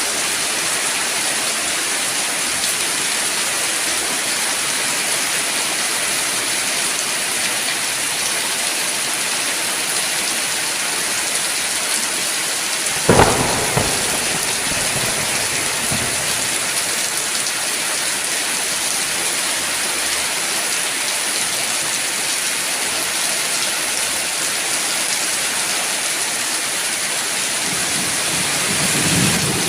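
Steady heavy rain falling, with a sharp thunderclap about halfway through and a low thunder rumble swelling near the end.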